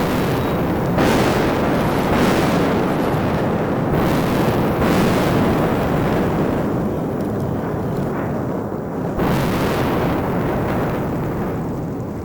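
Mount Etna erupting: a loud, continuous roar of lava fountaining, broken by sudden blasts about a second in, at two seconds, around four and five seconds, and again a little after nine seconds. The roar then slowly eases.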